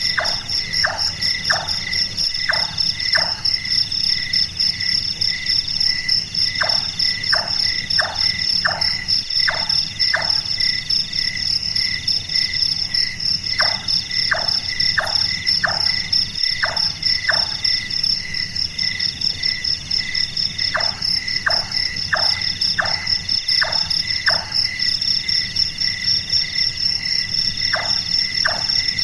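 Large-tailed nightjar giving its series of knocking 'chonk' calls, about six or seven notes at roughly two a second, repeated every few seconds. Continuous cricket trilling sounds behind it.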